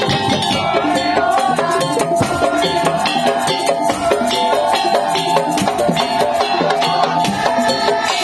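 Madurese tong-tong (daul) ensemble playing: dense, fast percussion on drums and wooden and bamboo instruments under a sustained melody line.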